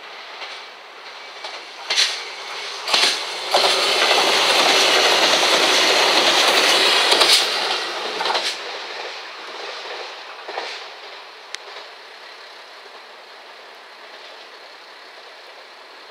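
JR Shikoku 2000 series tilting diesel train running through a station: a few wheel clicks over rail joints, then a loud rush of wheel and engine noise for about four seconds as it passes close, fading away with a few more clicks.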